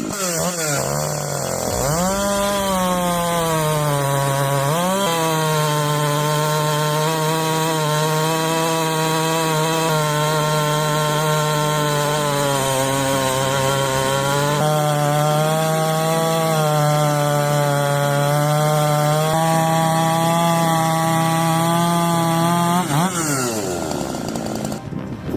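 Husqvarna 371XP two-stroke chainsaw run up to full throttle and sawing through wood. Its pitch climbs over the first couple of seconds, holds steady through a long cut, then drops away near the end as the throttle is released.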